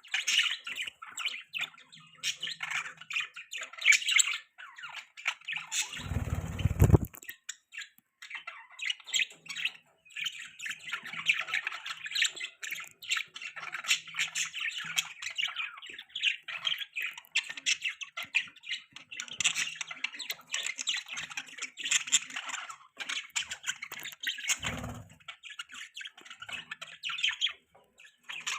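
Budgerigars chirping and chattering continuously in quick, high twittering calls. A low rumbling noise lasting about a second comes about six seconds in, with a shorter one near the end.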